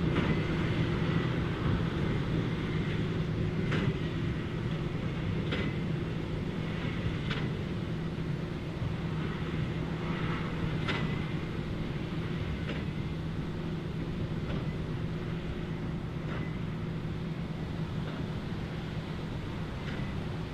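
Large farm tractor's engine running steadily in the field, with a sharp knock repeating about every two seconds. The sound grows gradually fainter.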